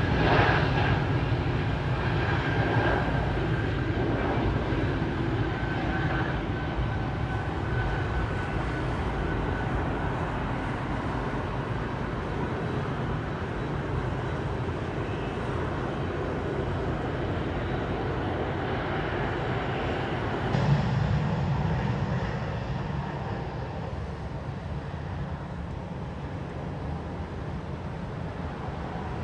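Airbus A220-300 jet engines (Pratt & Whitney geared turbofans) running with a steady, loud rush and a faint high whine that fades over the first several seconds. About two-thirds of the way through the sound cuts abruptly to another airliner's jet noise, a lower, steadier rumble.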